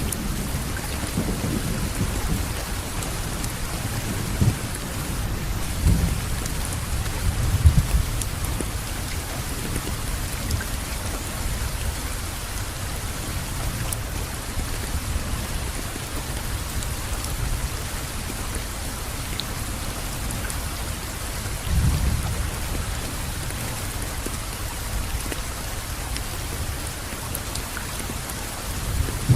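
Steady rainfall with low rolling rumbles of thunder, strongest in the first few seconds and again past the two-thirds mark.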